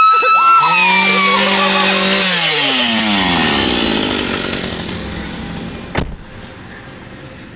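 A woman's high scream trails off at the start as a chainsaw engine revs loudly, holds, then winds down in pitch and fades over a few seconds. A single sharp click comes near the end.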